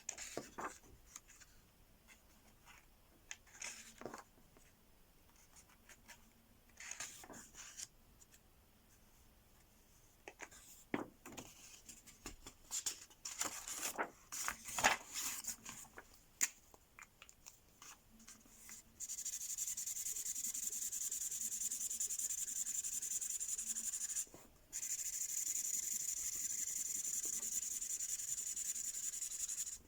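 Felt-tip Mystery Ink marker rubbing across paper as a page is coloured in: short scattered strokes at first, then, about two-thirds of the way in, steady continuous scribbling that pauses once briefly.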